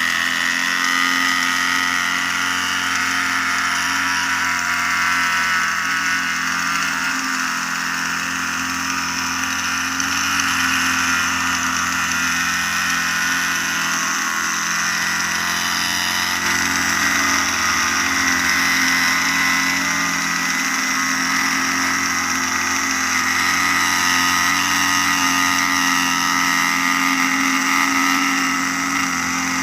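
Concrete truck's engine running steadily, a constant drone with a steady high whine over it.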